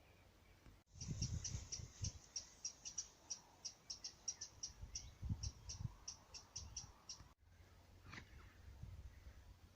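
A songbird singing a long run of short, high repeated notes, about four a second, ending after roughly six seconds; a single downward-sliding call follows near the end. Low rumbles sound under the song.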